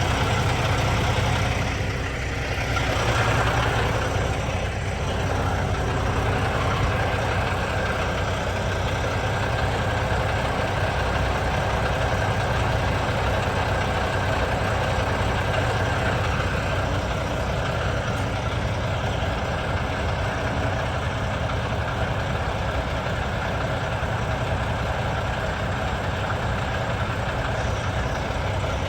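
Truck engine idling steadily, a low continuous drone.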